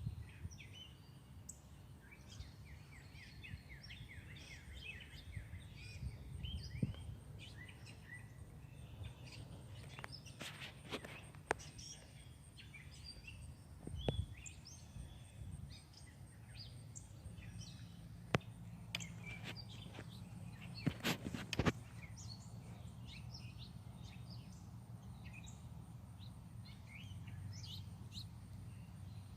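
Many small songbirds chirping and calling at bird feeders, with a few sharp clicks scattered through and a steady low background rumble.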